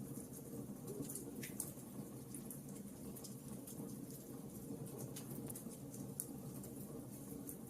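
Wood fire burning in a fireplace: a steady low rumble with irregular sharp crackles and pops, a few each second.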